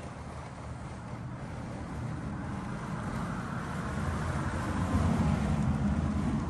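A low rumbling road-vehicle noise that swells steadily, peaks about five seconds in, then begins to fade.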